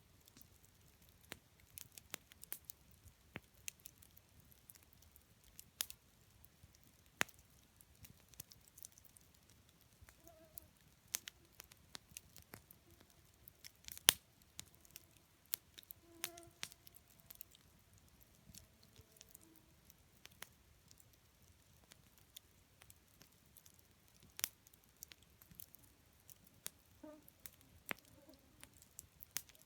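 Wood campfire crackling, with irregular sharp pops and snaps from the burning wood; the loudest pop comes about halfway through.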